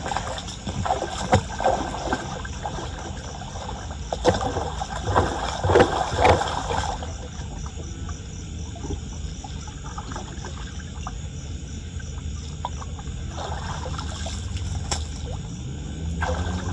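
Flood water splashing and gurgling, with a run of sharp splashes and knocks in the first seven seconds, then a steadier trickling flow.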